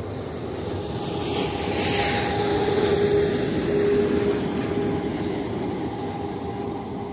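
An engine passing by: it grows louder to a peak a couple of seconds in, then fades away, with a steady hum and a hiss that drops in pitch as it goes past.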